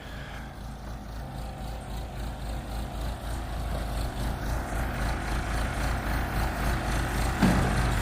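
Backhoe engine running steadily, growing gradually louder, with a short clunk near the end.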